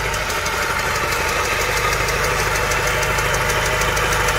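Honda Civic Type R EP3's K20 four-cylinder engine idling with a rapid, steady knock, which the owner puts down to a knocking bottom end that means a new engine.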